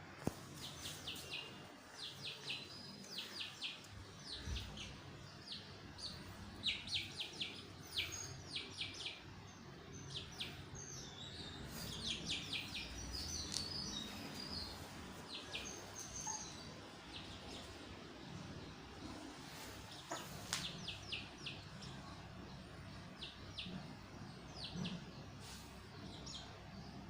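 Birds chirping: many short, high chirps in quick runs that come and go, over a faint steady background noise.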